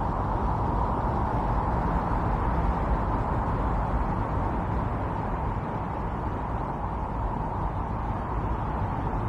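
Strong winter storm wind blowing in a steady, intense rush, swelling slightly a couple of seconds in.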